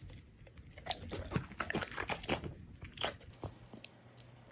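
A dog chewing and biting a piece of cheese, a run of irregular short crunches and mouth smacks.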